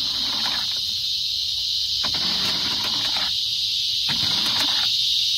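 Steady, high-pitched chorus of insects buzzing.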